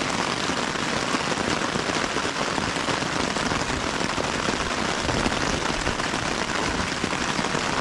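Steady rain falling, an even, dense patter of drops that holds at one level throughout.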